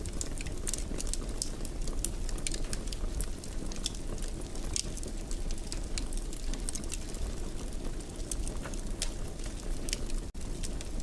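Wood fire in a fireplace crackling, with frequent irregular sharp pops and snaps over a steady low rumble. There is a very brief dropout about ten seconds in.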